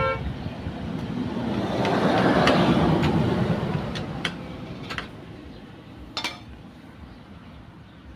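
A motor vehicle passing, its noise swelling and then fading away, with a few light metallic clinks, as of tools.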